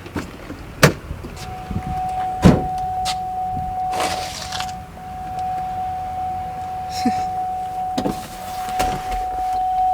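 Steady electronic warning tone from a 2008 Buick LaCrosse, starting about a second and a half in, with a few sharp clicks and brief rustling handling noises.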